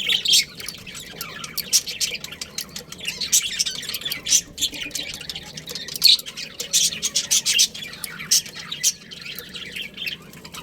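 Budgerigars chirping and chattering: many short, rapid, high chirps overlapping without a break.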